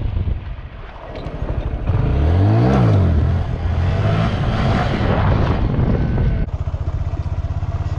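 Honda Grom's single-cylinder engine revving, its pitch climbing and dropping back quickly a little under three seconds in. About six and a half seconds in, it changes to a steady, evenly pulsing low running note.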